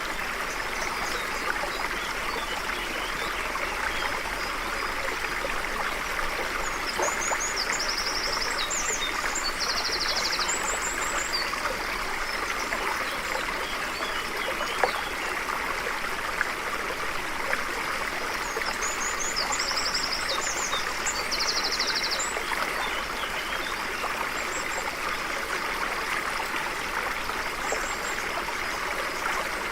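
A stream flowing steadily, with a small bird singing a high, chirping, trilled phrase twice, about a quarter of the way in and again about two-thirds in. There is one brief click near the middle.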